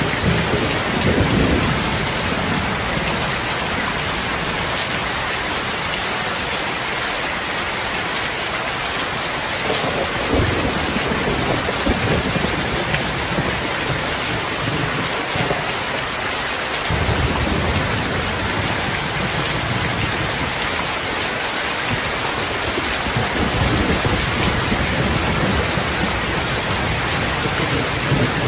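Heavy rain falling steadily with a constant hiss, while low rolls of distant thunder rumble underneath: one about ten seconds in and a longer one from a little past the middle onward.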